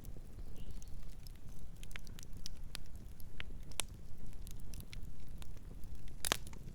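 Wood fire burning, with irregular sharp crackles and pops over a low steady rumble of the flames; the loudest pop comes near the end.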